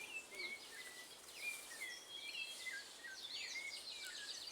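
Birds chirping and calling, many short whistled notes and quick rising and falling glides overlapping, over faint outdoor background noise.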